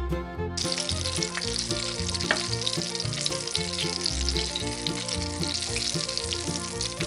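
Syrniki sizzling as they fry in vegetable oil in a frying pan, the sizzle cutting in sharply a little after half a second in. There are occasional small taps and scrapes as a wooden spatula moves the fritters, all over quiet background music.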